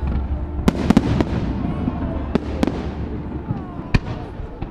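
Fireworks display: aerial shells bursting with sharp bangs over a low rumble, a quick cluster of bangs about a second in and single bangs about two and a half and four seconds in.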